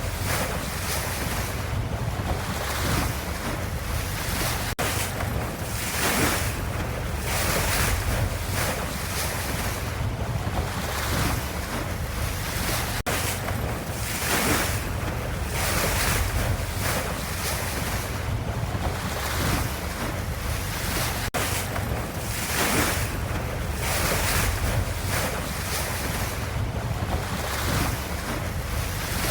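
Ocean water ambience: a continuous wash of waves over a deep low rumble, swelling and easing every second or two.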